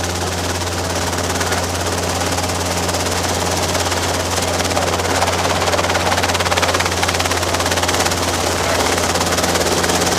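Robinson R22 helicopter running steadily: the four-cylinder piston engine and rotors give a constant low drone with a rapid, even chop.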